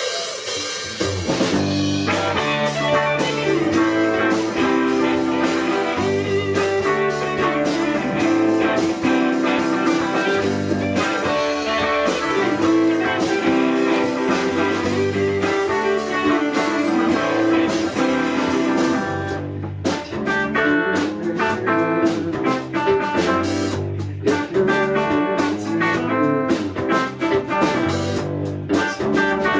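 A rock band playing live, led by guitar over bass and drums. About twenty seconds in, the sound drops back and continues with sparser, choppier strokes.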